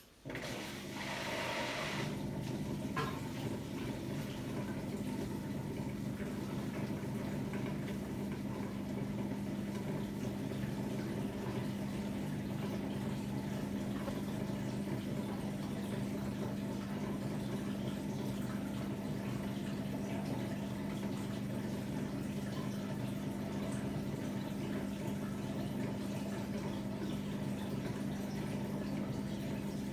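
Hotpoint-Ariston AQD972F washer-dryer taking in water: the flow starts abruptly with a hissing rush, then settles into steady running water with a constant hum.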